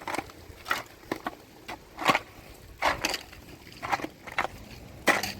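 A rapid, irregular series of sharp knocks and snaps, a dozen or so in five seconds, with the loudest near the end.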